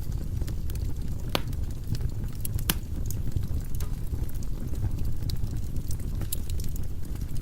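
Firewood burning in a fireplace: a steady low rumble of flames with scattered crackles and sharp pops, two louder pops within the first three seconds.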